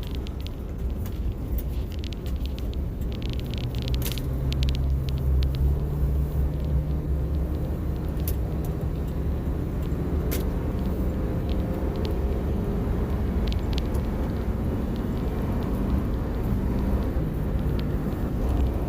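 Old pickup truck being driven, heard from inside the cab: a steady low engine and road rumble, the engine note rising a few seconds in as it picks up speed, then holding steady.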